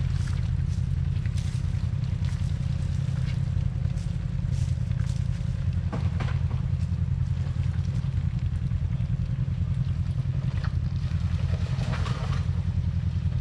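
Off-road vehicle engine running steadily with a low, even pulsing note, with a few faint clicks and knocks over it.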